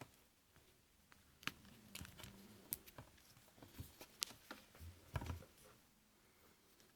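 Faint handling noise: scattered light clicks and taps, bunched in the middle few seconds, in near quiet.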